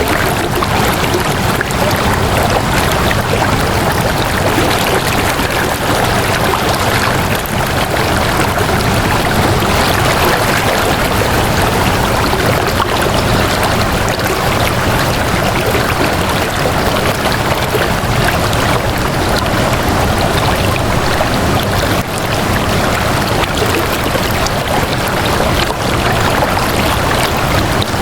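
Flowing water, a stream running steadily.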